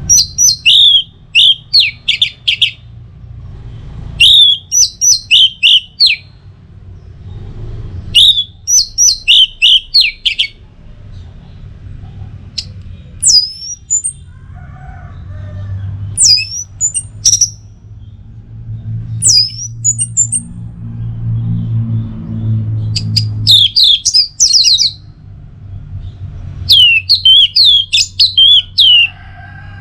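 Orange-headed thrush singing: repeated short phrases of quick, falling whistled notes, with a few single rising whistles between them in the middle. A low hum runs underneath.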